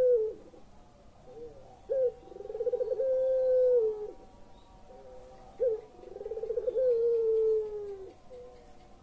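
Puter pelung dove cooing: the end of one coo at the start, then two full coos, each a short opening note, a rolling, pulsing phrase and a long held low note that drops at the end.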